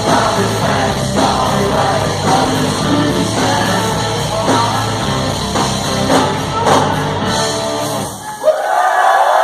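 Live rock band playing the close of a song, with vocals over drums, bass and guitar. The music stops about eight seconds in and the crowd breaks into cheering and whoops.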